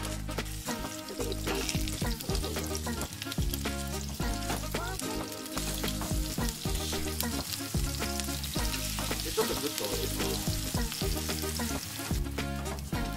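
Kimchi pancakes sizzling as they fry in oil in a frying pan, with a spatula pressing them down, over background music.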